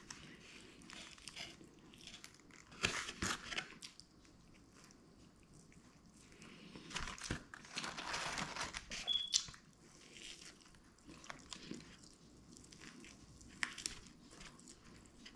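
Close-up chewing and biting of crispy fried chicken wings, with crinkling of the cardboard box and paper liner as a hand rummages in it. The rustling is loudest briefly about three seconds in and again for about two seconds past the halfway point.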